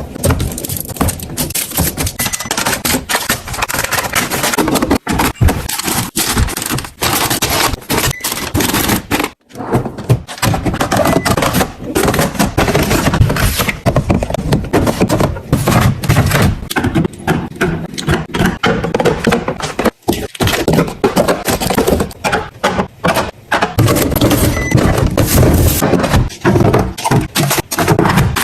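Containers and groceries being handled while a fridge is restocked: a continuous run of thunks, taps and scrapes as things are set down and slid onto shelves, with brief pauses about 9 and 20 seconds in.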